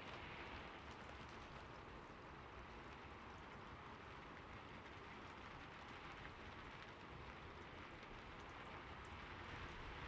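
Steady rain falling on a roof: an even, quiet hiss with faint scattered ticks of single drops.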